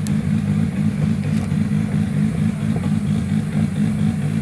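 Off-road 4x4's engine running steadily at a low, even speed, with no revving.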